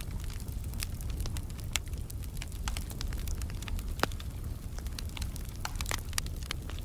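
Wood fire burning in a fireplace: a steady low rumble with frequent irregular crackles and pops, one sharper pop about four seconds in.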